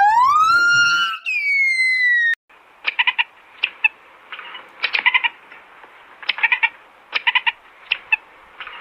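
Animal calls: a high, drawn-out cry that rises in pitch and breaks off after about two seconds. Then come short clusters of rapid chirps or squeaks over a faint hiss.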